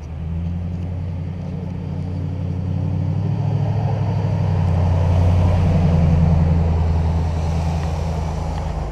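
A loud, steady, deep mechanical hum with a low droning tone, growing louder toward the middle and easing off a little near the end.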